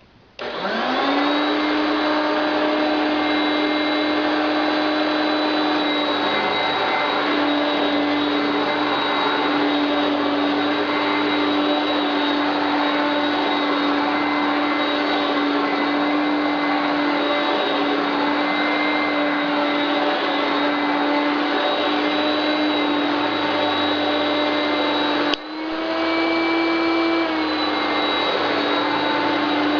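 Hoover Powermax self-propelled heavy-duty upright vacuum cleaner switched on, its motor winding up in pitch within the first second, then running steadily with a whine. About 25 seconds in there is a brief break, after which it runs on at a slightly higher pitch for a moment before settling back.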